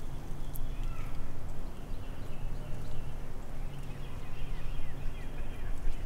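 Small birds chirping in short calls over a steady low rumble and hum of outdoor background noise.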